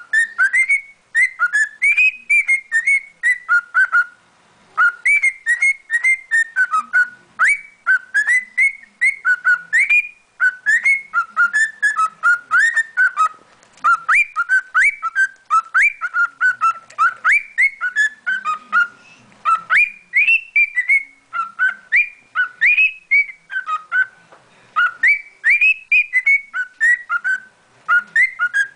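Male cockatiel singing: a long run of short whistled notes, several a second, sliding up and down in pitch, with brief pauses between phrases. It sings like this when content.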